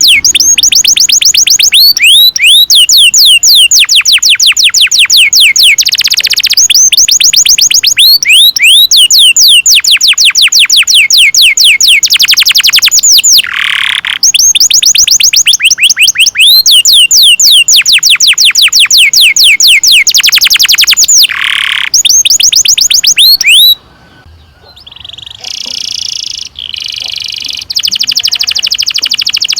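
Domestic canary singing long rolling trills: rapid runs of repeated high, downward-sweeping notes, many to the second, held for several seconds at a time with brief breaks. Near the end the song drops quieter for a few seconds into shorter, varied notes, then swells again.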